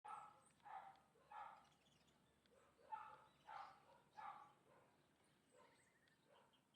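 Faint animal calls: six short calls in two groups of three, about 0.7 s apart, with faint high chirps and a short rapid trill near the end.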